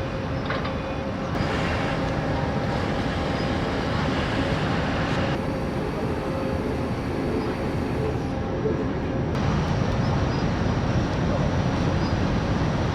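Steady mechanical rumble and rushing noise aboard a large car ferry underway, with a faint steady hum; the sound changes abruptly a few times, as between short shots.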